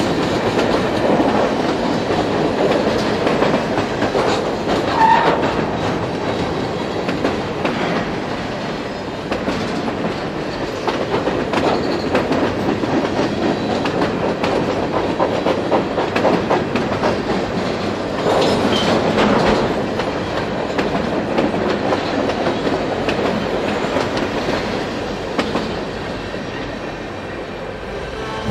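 Empty centerbeam flatcars of a freight train rolling past, their steel wheels clicking over the rail joints and the car bodies rattling, with a brief high squeak about five seconds in. The clatter fades a little near the end as the train moves away.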